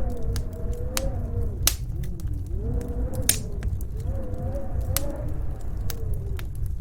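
Fireplace crackling with many sharp pops, the two loudest about a quarter and halfway through, over a steady low rumble and the wavering, rising and falling howl of snowstorm wind.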